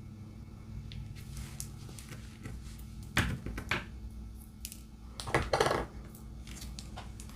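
Small plastic diamond-painting drills rattling against a plastic tray, in two short bursts about three and five seconds in, over a steady low hum.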